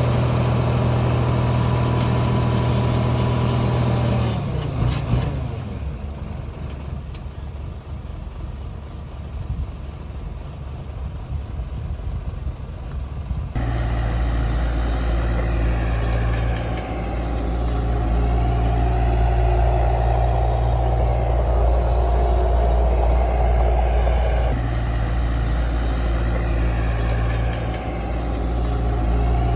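Heavy diesel engine of earthmoving machinery running steadily. Its level drops about four seconds in, then jumps back louder and deeper about halfway through.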